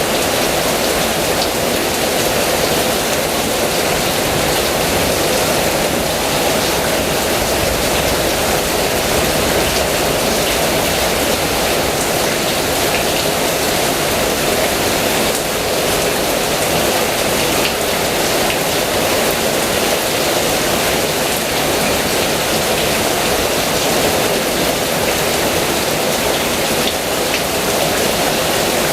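Heavy rain falling steadily, a dense unbroken hiss with faint drop ticks.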